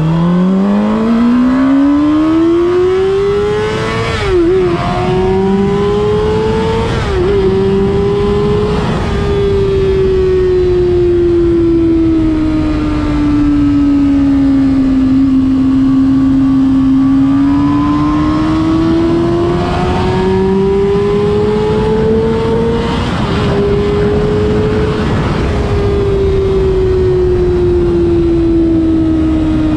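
Honda CBR600RR inline-four engine revving hard under acceleration. Its pitch climbs steeply with quick sharp dips at about four and seven seconds as it shifts up. It then eases down slowly, builds again to a high rev with another dip near the end, and falls back.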